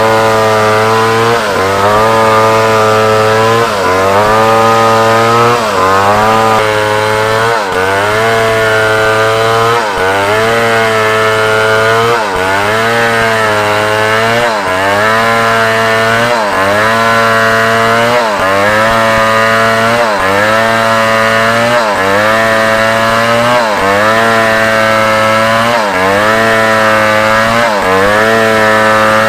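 Large chainsaw ripping through a log at high throttle. Its engine note sags and recovers about every two seconds as the chain bites into the wood.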